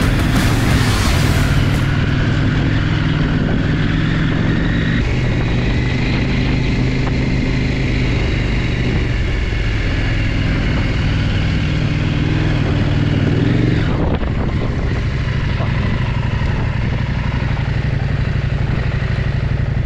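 KTM 890 Adventure R's parallel-twin engine running at low revs as the bike is worked through mud. The engine note shifts a few times, with a brief rise and drop about fourteen seconds in.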